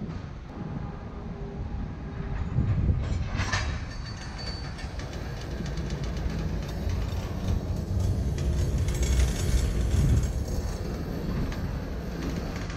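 Freight train of covered hopper cars rolling past with a steady low rumble and repeated clicks of wheels over the rails. There is a louder clank about three seconds in.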